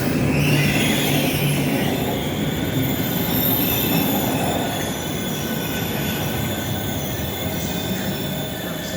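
Pendolino electric train moving along the platform tracks, a steady rumble with thin, high wheel squeal above it, slowly getting quieter.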